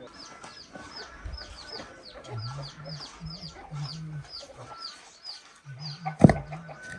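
Chickens: a rapid run of short high peeps, about three a second, over intermittent low clucking, with one sharp knock about six seconds in.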